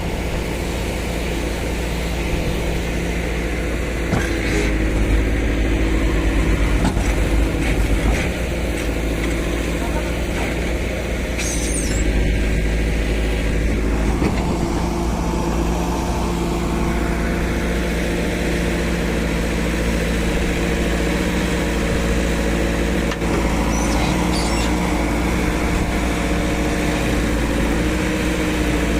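Heavy diesel engine running at a steady speed, a little louder for a few seconds about four seconds in and again from about twelve seconds on.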